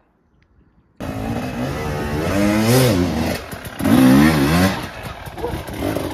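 KTM enduro motorcycle engine revving hard as the rear wheel spins on a steep leaf-covered climb. It starts abruptly about a second in, and the revs surge up and fall back twice.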